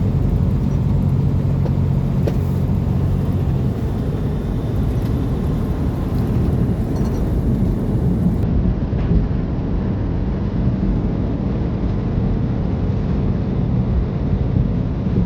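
A road vehicle on the move: steady low engine and road rumble, with a low engine drone that fades out about three seconds in.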